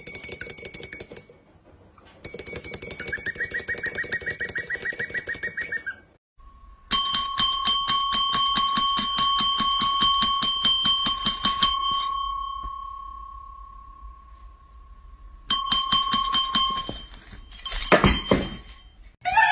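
A small bell jingling rapidly, about ten strikes a second, in several bursts with short pauses between them, alongside a steady high tone through the middle.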